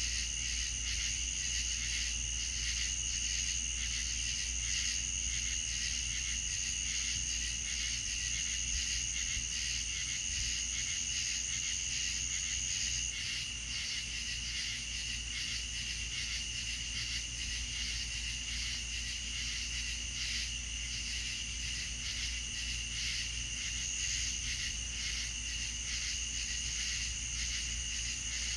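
Insect chorus, crickets chirring in steady, pulsing high-pitched trills over a low steady rumble. The highest-pitched trill stops about halfway through.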